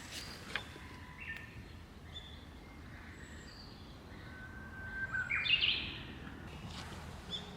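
Birds calling over steady outdoor background noise: scattered short whistled notes, with a louder rising phrase about five seconds in.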